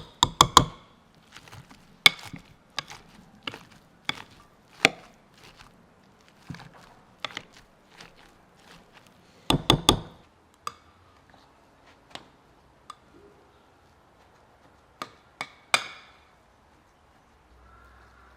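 A knife chopping on a wooden board in irregular sharp knocks, single or in short clusters, with louder bursts near the start, about halfway, and a little before the end.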